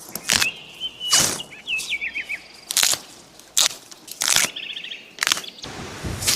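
Small birds singing short chirps and quick trills, under about seven loud, sharp crunching noises that come roughly once a second.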